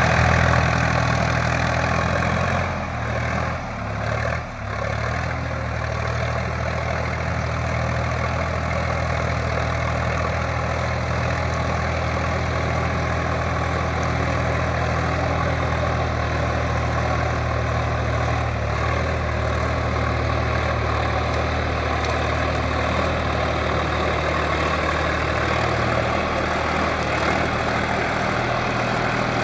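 Sonalika tractor's diesel engine running steadily under load, driving a rotavator through hard soil, with a dense churning noise from the blades over the engine's low drone. The sound dips briefly a few seconds in, then holds steady.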